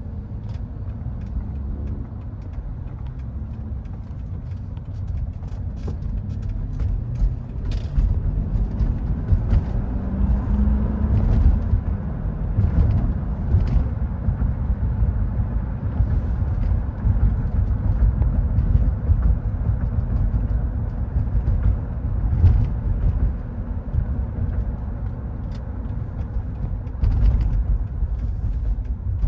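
2000 Mercedes-Benz E430's 4.3-litre V8 running as the car is driven: a steady low engine and road rumble. The engine note rises briefly about ten seconds in, and there are scattered light clicks.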